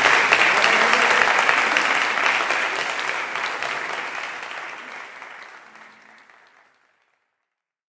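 Audience applauding, the sound fading out gradually to silence over the last few seconds.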